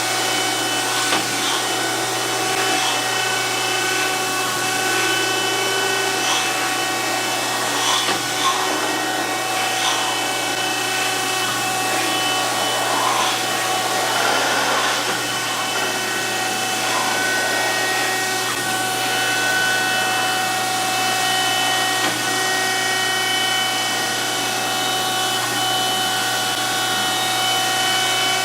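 DoAll 14-inch surface grinder running steadily, a constant hum with several fixed whining tones. Light scratchy sounds come and go through the first half as the wheel works across the steel vise.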